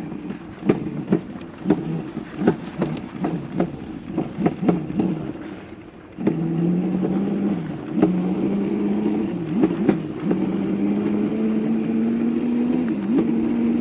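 Irregular clicks and knocks for the first few seconds, then about six seconds in the electric motor of a mini dirt bike starts up with a steady whine whose pitch climbs slowly as the bike gathers speed, with brief dips.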